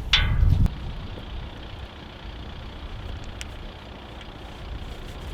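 Low rumble of wind buffeting the microphone, strongest in the first second and then easing to a steady lower rumble.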